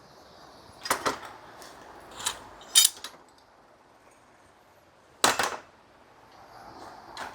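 A few sharp knocks and clatters of objects being handled, about four in all, the loudest about five seconds in.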